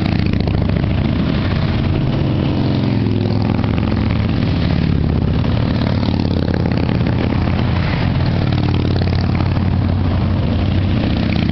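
Motorcycle engines running steadily at low revs, a continuous low rumble without a break.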